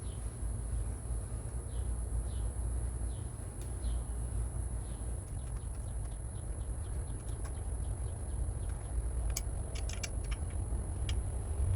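Outdoor background with a steady low rumble and a small bird chirping repeatedly, short falling chirps in the first few seconds. A quick cluster of sharp clicks comes near the end.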